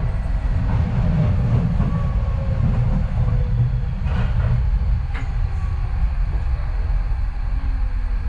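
Docklands Light Railway train running, heard from inside the carriage: a steady low rumble with a faint whine that falls slightly in pitch, and a couple of sharp clacks from the wheels on the track about four and five seconds in.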